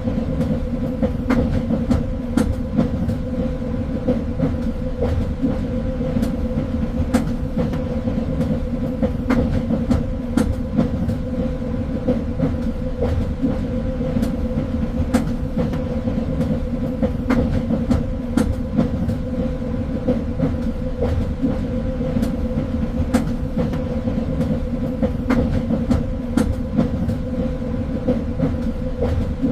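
Train running along the track: a steady rumble and hum with irregular clicks from the wheels on the rails.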